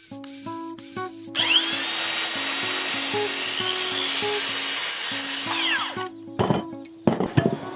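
An electric power tool's motor spins up, runs steadily for about four and a half seconds and winds down, with a few sharp knocks on wood after it, over background music.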